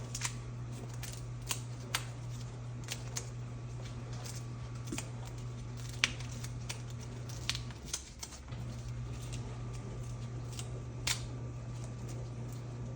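Scattered sharp clicks and snaps of a cockatoo's beak chewing and cracking a toy apart, over a steady low hum.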